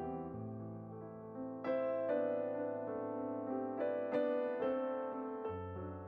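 Background music: a slow, gentle piano piece with sustained low bass notes and chords struck every second or two.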